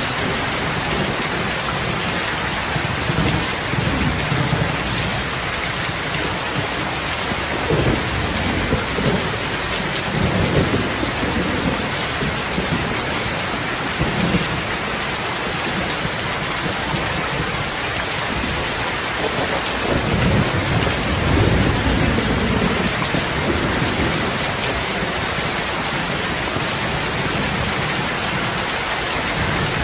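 Heavy rain falling steadily, with low rumbles of thunder swelling and fading several times, the strongest about two-thirds of the way through.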